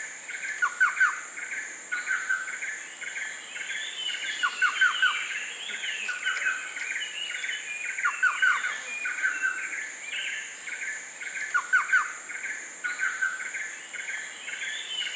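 Tropical rainforest ambience: several birds chirping and calling, with a short run of three or four quick falling notes repeating about every three and a half seconds, over a steady high-pitched insect drone.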